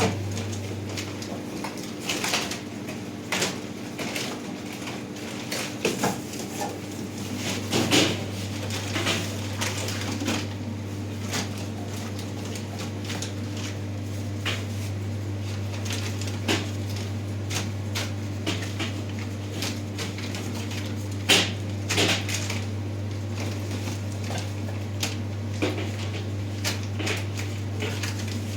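Goods and packages being handled and set on shelves: scattered knocks, clatters and crinkles, the sharpest about eight seconds in and again past twenty seconds, over a steady low hum.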